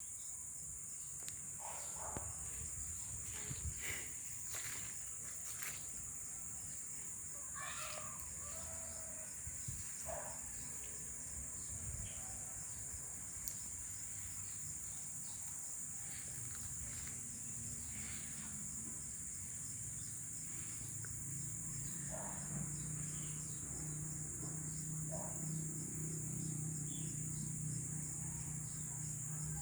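Steady, high-pitched insect chorus, with short calls breaking in here and there over it.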